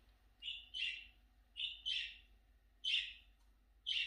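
A bird chirping: short, scratchy calls about once a second, some coming in quick pairs.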